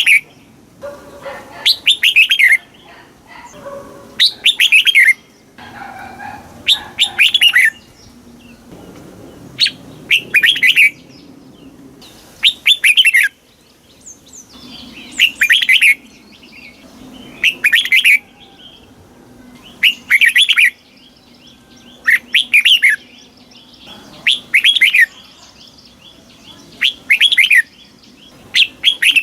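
Red-whiskered bulbul singing: short, loud phrases of quick whistled notes, repeated about every two and a half seconds, a dozen or so times.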